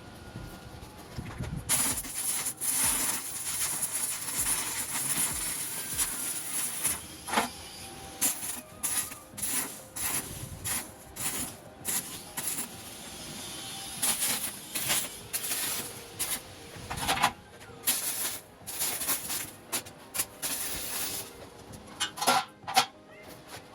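Electric welding arc on galvanized steel, crackling and hissing in a string of short bursts with brief pauses between: tack welds.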